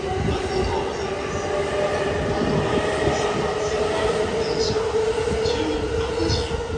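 JR East E217 series electric multiple unit accelerating out of a station past the platform: the traction motors give a whine that rises slowly in pitch over a steady rumble of wheels on rails, with short hissing squeals from the wheels now and then.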